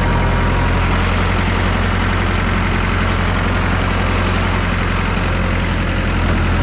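Massey Ferguson 3165 backhoe tractor's diesel engine running loud and steady at an even speed.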